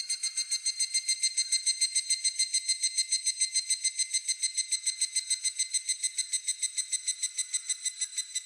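Higurashi (evening cicada) calling: a long run of rapid, ringing, high-pitched pulses, about eight a second, that stops near the end.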